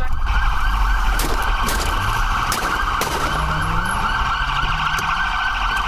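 Police car siren switching on and wailing in a rapid, fast-cycling yelp, with engine and road rumble underneath.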